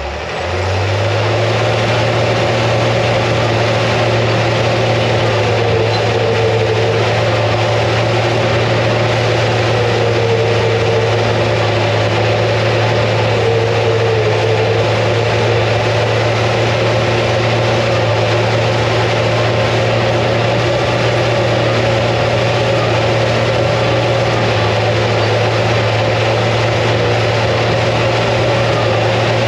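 International TD15C crawler dozer's DT466 six-cylinder diesel engine revving up about a second in, then running steadily at working speed, with a few short squeals over the engine.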